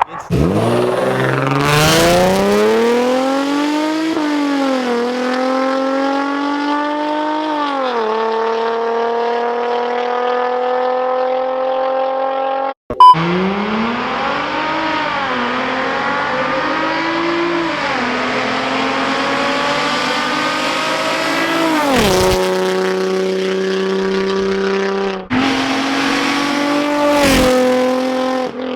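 Infiniti G35's V6 through a Tomei Expreme Ti titanium Y-back exhaust at full acceleration. The exhaust note rises steeply through two upshifts and then holds a steady high pitch. After an abrupt cut, another pull climbs through the gears and levels off again, followed by further short segments that start suddenly.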